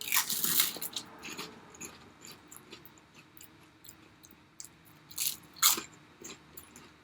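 Close-up crunching and chewing of pork rinds with guacamole: a burst of crunching at the start, quieter chewing, then two sharper crunches about five seconds in.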